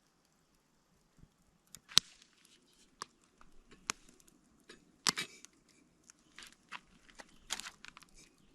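Objects being handled by hand: scattered sharp clicks and light knocks with short bursts of rustling, the sharpest click about two seconds in.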